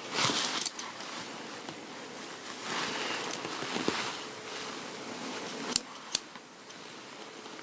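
Scissors cutting through material, with rustling, and two sharp clicks near the end.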